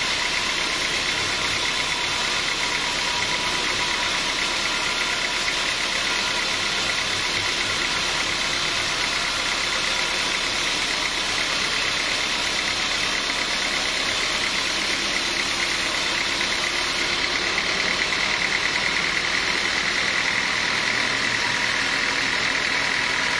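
Sawmill machinery running steadily, an unbroken engine-like drone with a steady high tone through it.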